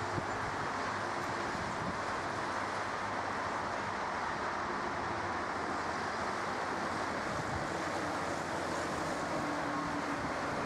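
Steady rushing roar of jet aircraft engines, with faint low gusts of wind on the microphone.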